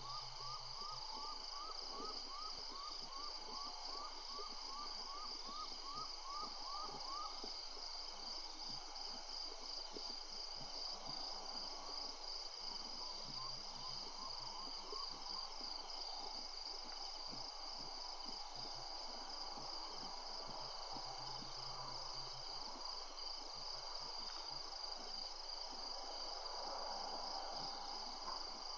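Evening insect chorus with a steady, rapidly pulsing high trill. For the first seven seconds or so a rapid series of short rising chirps, about three a second, sounds over it, and it returns faintly later.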